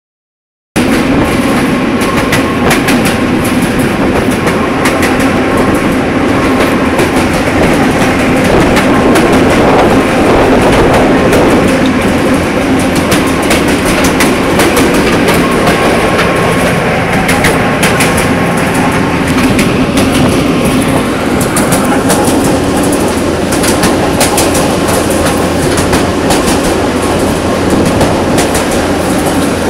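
Diesel locomotive moving along the track: a steady engine drone with a constant clatter of wheels over the rails. It starts abruptly about a second in.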